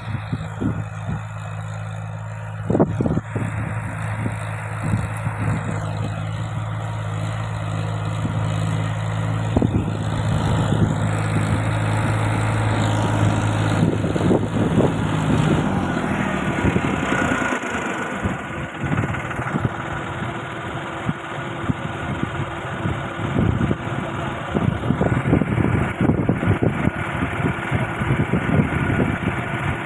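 Tractor engine running steadily while pulling a moldboard plow through dry soil. About halfway through, the steady engine note gives way to a rougher sound with many irregular knocks and clatter.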